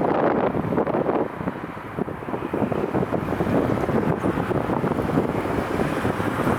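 Strong gusty wind buffeting an unshielded microphone, a loud rumbling rush that swells and eases with the gusts.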